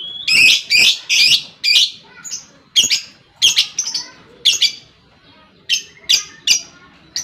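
Lovebird calling in ngekek: short, sharp, high-pitched calls repeated about two a second, packed most closely together in the first two seconds.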